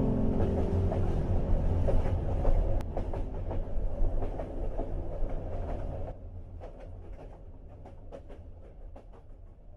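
Train running on rails: a steady low rumble with wheels clicking over the rail joints. About six seconds in the rumble drops away, leaving a faint bed with a few light clicks.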